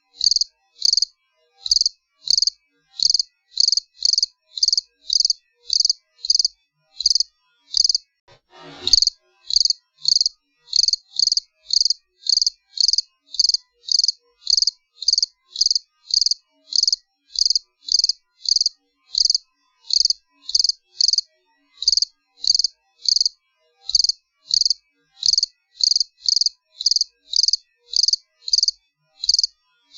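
A cricket chirping steadily: short, high-pitched chirps evenly repeated a little under twice a second. About nine seconds in there is one brief, soft low whoosh.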